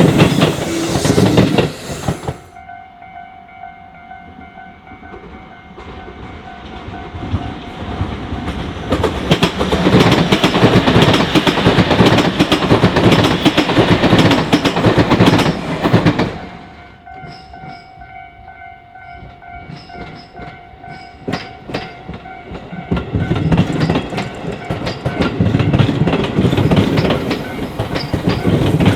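Tobu Railway trains passing over a Japanese level crossing, wheels rumbling and clacking over the rail joints. One pass ends about two seconds in, another runs from about eight to sixteen seconds, and a third builds near the end. In the quieter stretches between passes, the crossing's warning bell rings steadily.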